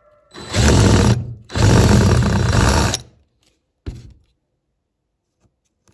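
A handheld power tool runs in two bursts, about a second and then about a second and a half long, followed by a single short knock.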